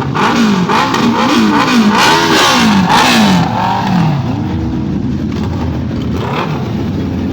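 Superbike engine revved in quick throttle blips, about two a second, for the first four seconds, then one slower rev, then back to a steady idle.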